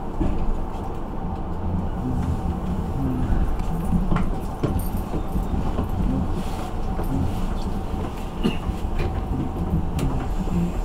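Electric commuter train running on the rails, heard inside the cab: a steady low rumble with a faint hum over it and a few sharp clicks as the wheels cross rail joints and points.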